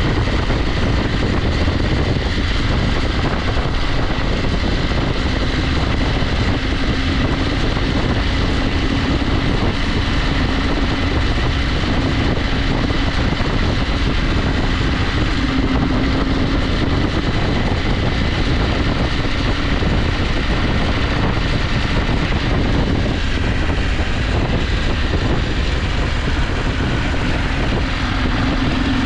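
KTM 890 Adventure's parallel-twin engine running at a steady pace on the move, under a continuous rush of wind and road noise.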